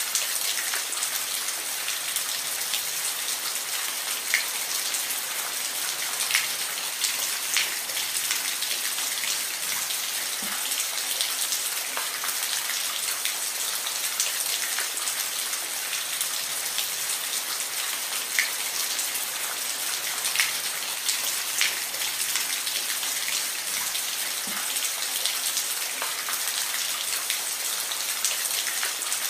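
Steady rainfall, an even hiss with scattered individual drops pattering close by.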